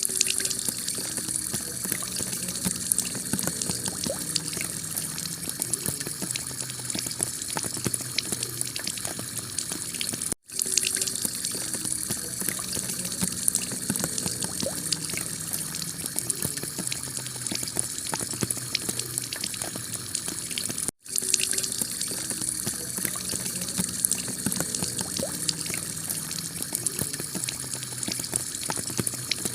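Heavy rain falling on a clay tile roof: a dense, steady patter of drops over rushing water. It cuts out for an instant twice, about ten and twenty-one seconds in.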